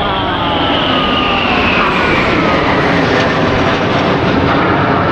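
Jet aircraft flying past overhead at an aerobatic display: a loud, steady roar with a high whine that falls slowly in pitch as they pass.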